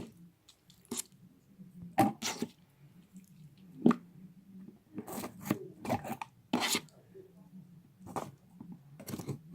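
Slime squelching and crackling in short, irregular bursts, about ten in all, as it is broken up and pressed back into its pot.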